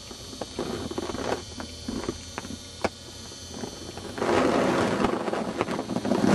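Close handling noise: a few small clicks and taps, then a couple of seconds of rustling starting about four seconds in, as hands work around a hatching parakeet egg.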